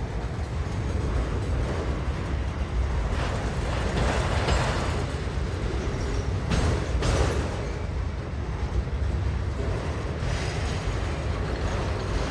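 Freight train cars rolling past: a steady low rumble of wheels on rail, with an occasional short clank.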